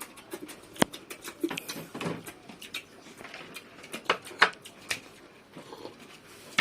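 Irregular clicks, taps and short scuffing noises from eating and from handling bowls and utensils at the table.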